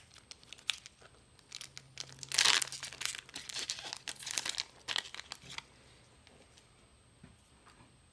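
Plastic wrapper of a trading-card booster pack being torn open and crinkled, loudest about two and a half seconds in, then stopping a little past halfway.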